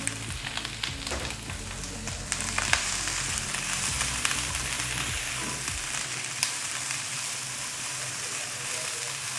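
Chopped shallots and onion sizzling as they sauté in hot oil in a pan, with a few sharp clicks of stirring.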